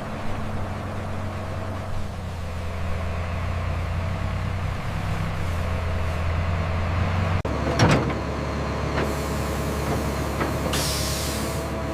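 Heavy wood-processing machinery running with a steady low hum. About eight seconds in there is a short loud clatter, and near the end a brief hiss.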